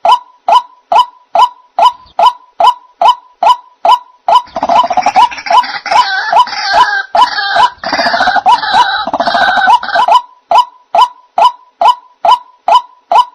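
White-breasted waterhen (ruak-ruak) calls used as a bird-trap lure: a monotonous repeated note, about two and a half a second. From about four to ten seconds in, a denser, harsher chorus of croaking calls joins it.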